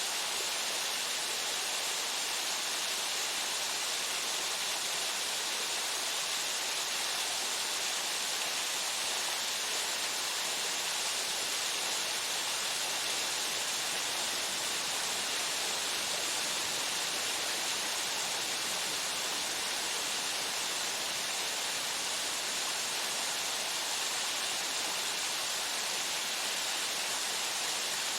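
Water falling at the Odaki (male fall) of Shihōgi Fudō Falls, a steady, unbroken rush with most of its weight in a bright hiss.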